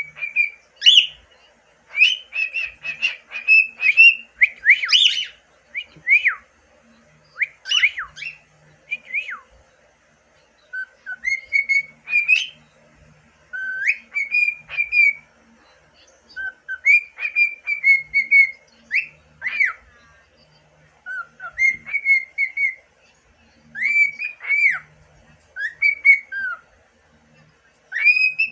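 Six-month-old pet cockatiel whistling its song, off-key: short whistled phrases with quick upward and downward slides, repeated in bursts with brief pauses and one longer pause about ten seconds in.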